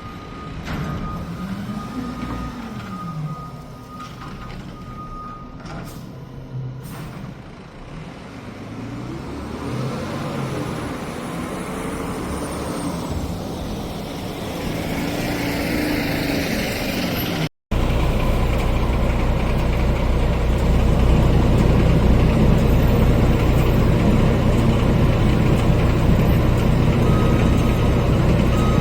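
Garbage truck diesel engines: first one revving up and down repeatedly as it works, then, after an abrupt cut, a louder truck engine running steadily, with short reversing beeps starting near the end.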